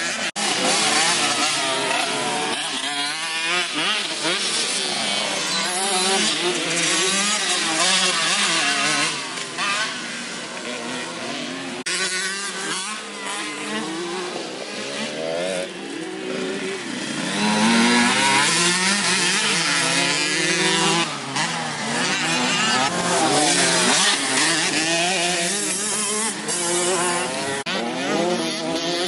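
Motocross bike engines revving, the pitch climbing and dropping again and again as the bikes are ridden round a dirt track. The revs ease off for a stretch in the middle and pick up again.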